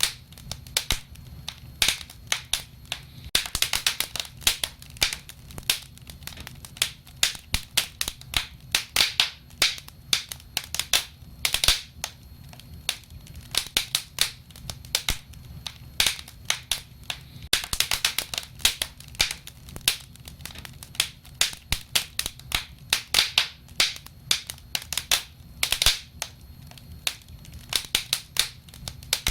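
Wood fire burning, with dense, irregular crackling and sharp pops throughout. A faint steady low hum lies underneath.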